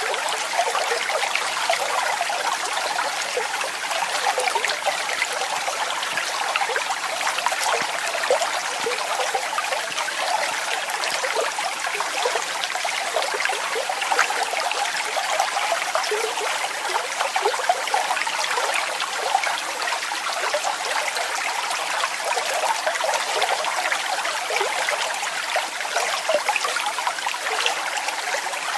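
Waterfall: water falling and splashing steadily, a continuous hiss and patter of small splashes with little bass.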